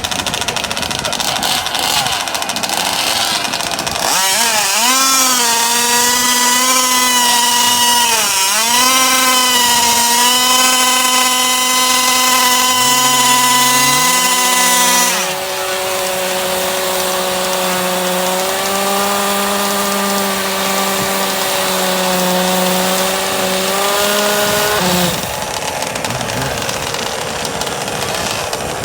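Two-stroke gasoline engines of large-scale RC drag cars running at a steady high pitch, with a hazy exhaust rasp over them. One engine starts about four seconds in, dips in pitch twice and cuts off about halfway. A second, lower-pitched engine comes in shortly before that and runs on until near the end.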